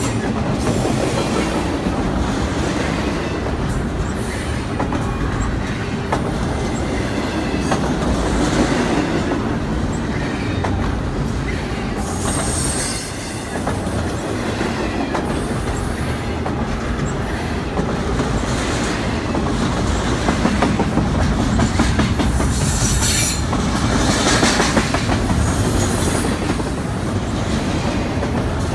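Double-stacked container cars of a CSX intermodal freight train rolling past close by: a steady, unbroken rumble of steel wheels on rail. A high wheel squeal rises over it a little before halfway and again a few seconds before the end.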